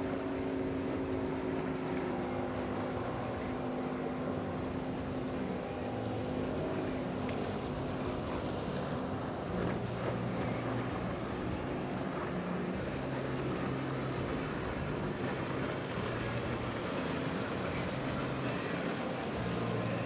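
Motorboat engines running as boats pass, a steady drone whose pitch sags a little early on, with a lower engine hum joining about halfway through. Wind and surf hiss underneath.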